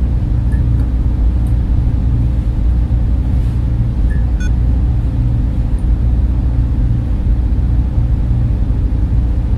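Server room cooling fans running as a steady, low rumbling hum that does not change.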